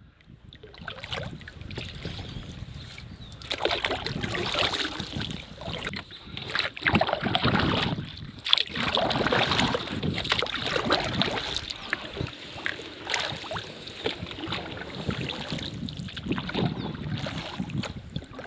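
Water splashing and sloshing around a canoe in irregular surges, with wind buffeting the microphone.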